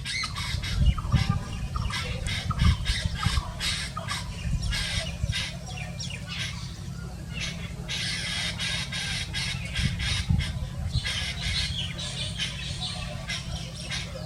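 A bird giving rapid runs of short, harsh squawking calls over and over, with a steady low rumble underneath.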